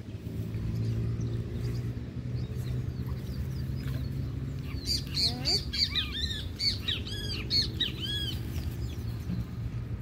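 A small bird chirping a quick run of short, arched notes for about three seconds in the middle, over a steady low hum.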